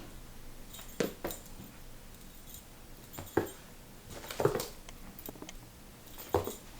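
A few separate knocks and taps, about five, spaced irregularly over a quiet background, like objects being handled and set down.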